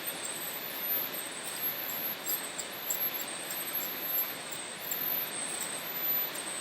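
A steady hiss with high-pitched insect trills pulsing on and off above it.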